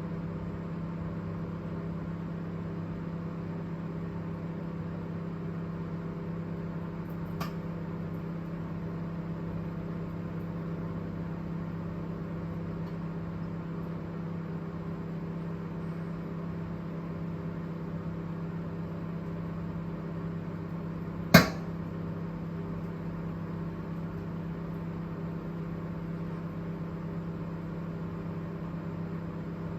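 Microwave oven running with a steady hum, broken about two-thirds of the way through by a single loud, sharp crack: the microwave's intermittent abnormal noise. A fainter click comes about a quarter of the way in.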